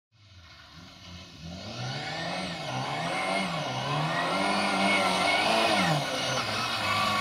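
Lada rally car's engine revving hard on the throttle, its pitch climbing and dropping again and again as it works through the gears. It fades in from faint and grows steadily louder as the car approaches.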